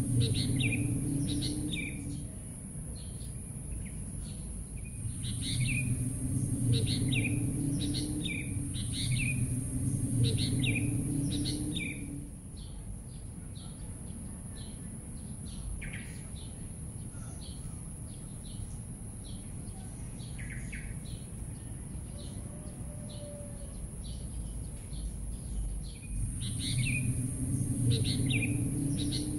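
Small birds chirping in quick runs of short falling chirps that come in bursts and fade in the middle stretch. A steady high thin hiss runs underneath, and a low rumble swells with each burst of chirping.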